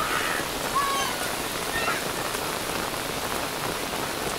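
Heavy rain pouring steadily onto waterlogged ground.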